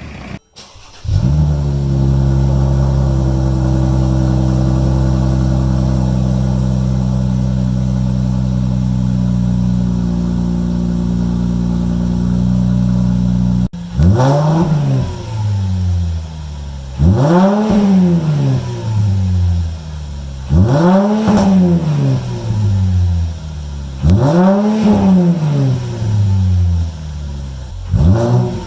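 Mercedes-Benz V6 engine and exhaust held at a steady speed for about twelve seconds. After a cut it is revved in short blips, each rising and falling, about every three and a half seconds.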